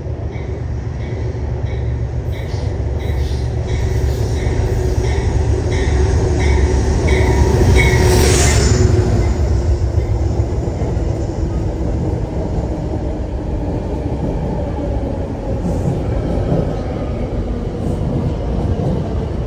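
Metro-North commuter train running through the station with a heavy steady rumble. During the first eight seconds there is a rhythmic high chirping, about two to three times a second, and about eight seconds in a short, loud high-pitched screech from the wheels.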